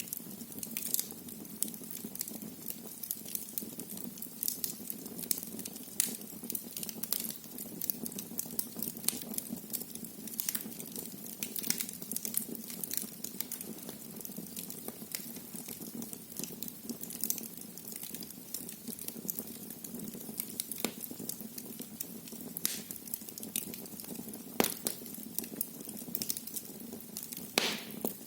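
Wood fire burning in a fireplace: continuous crackling with frequent sharp pops over a low, steady rush of flame. A few louder pops stand out, the strongest near the end.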